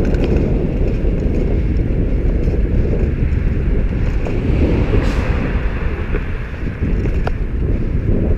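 Steady wind buffeting on the microphone of a moving bicycle, with street traffic and tyre noise beneath it; a brief hiss about five seconds in.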